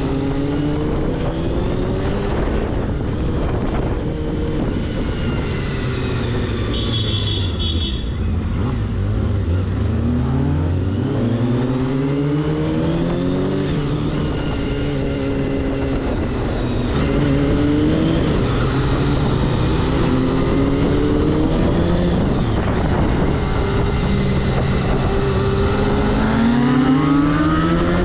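Honda CBR250RR MC22's inline-four engine on the move, its pitch climbing through each gear and dropping back at each shift, over steady wind rush on a helmet camera. About ten seconds in it slows to a low pitch, then winds up again.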